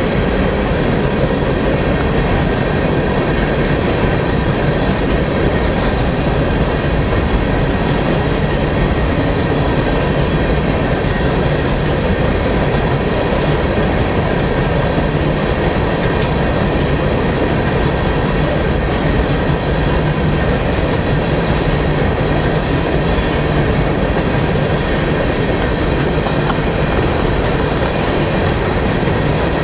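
Long freight train of hopper cars rolling past: a steady rumble and clatter of steel wheels on the rails, with a few faint steady high tones above it. It holds even all the way through.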